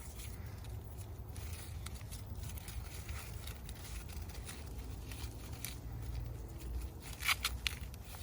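Dry corn husks being peeled off an ear by hand: scattered tearing and crackling of the husk leaves, with a cluster of sharper rips about seven seconds in.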